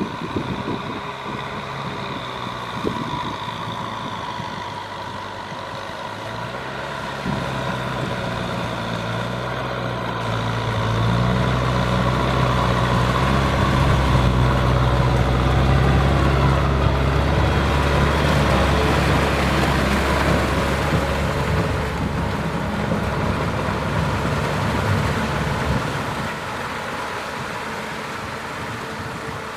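Kubota M6040SU tractor's diesel engine running. It grows louder about ten seconds in, holds there for about ten seconds, then eases back.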